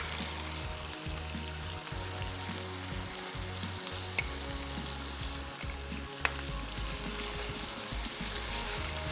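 Minced meat sizzling in hot oil as it is fried with its spices and salt, the stage where it is cooked until its water dries off. It is stirred, with two light clicks about four and six seconds in.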